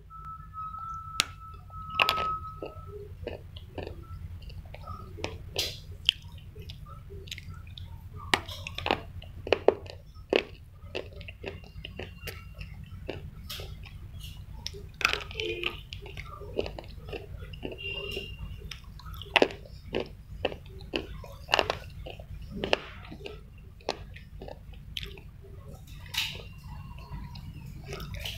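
Slate pencil being bitten and chewed close to the microphone: irregular sharp crunches and snaps, roughly one to two a second, over a steady low hum.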